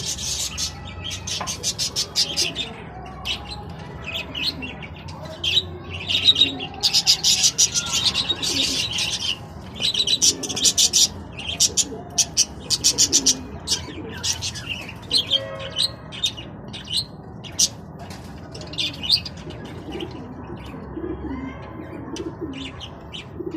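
A flock of budgerigars chirping and chattering in fast, high-pitched runs of chirps, busiest in the first half and thinning out toward the end.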